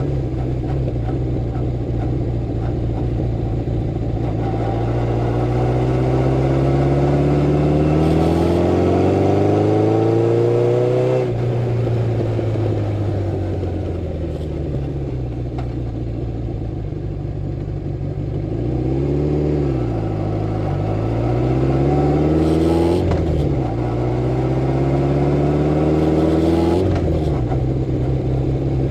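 Honda CB750 Four's air-cooled inline-four engine under way, its revs climbing steadily for several seconds and then dropping suddenly at a gear change, twice. In between the revs fall away as the throttle eases, dip and pick up again.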